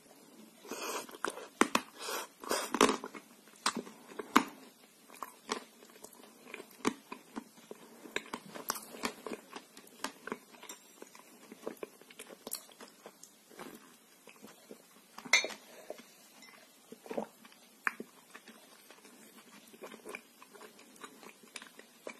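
Person biting into and chewing dry edible rose Uzbek clay: many sharp crunches, densest in the first few seconds and sparser later.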